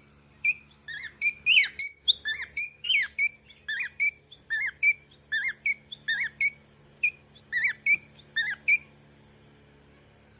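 A bird giving a rapid series of short, squeaky chirps, about two to three a second, that stop about nine seconds in.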